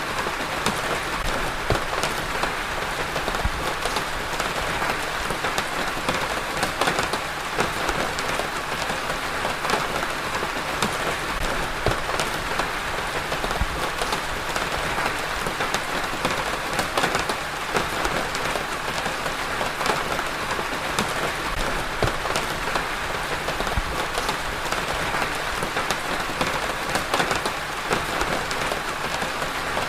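Steady rain falling on a surface, with many individual drops ticking through a constant hiss.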